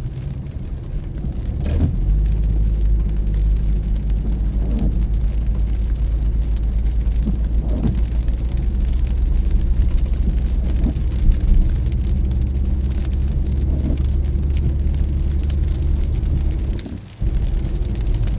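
Car driving on a rainy road: a steady low rumble of engine and tyres, with faint short taps every few seconds. The sound dips briefly near the end.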